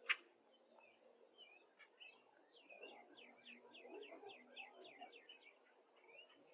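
Faint wild songbirds chirping, with a quick run of repeated short notes through the middle. A single sharp click comes right at the start.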